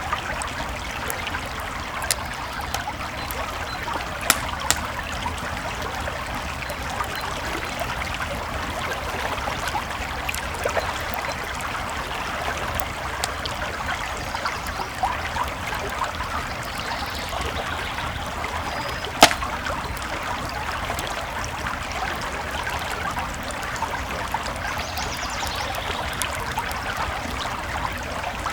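A creek babbling and trickling steadily, with a wood campfire crackling over it in scattered sharp pops, the loudest pop a little past two-thirds of the way through.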